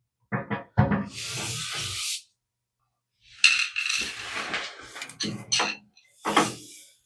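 Metal parts of a gas water heater's burner access being handled and pulled free: a few sharp clanks, a scrape of about a second, then a run of metallic clattering and knocks.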